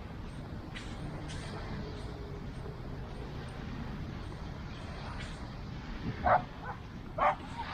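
Steady road-traffic noise, then a dog barks a few times near the end, each bark short and much louder than the traffic.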